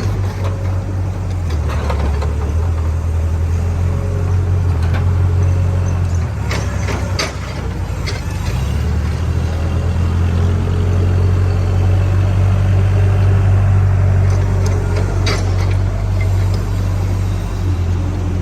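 A JCB backhoe loader's diesel engine running steadily, its low drone stepping up and down a few times, with a few sharp knocks about a third of the way in and again near the end.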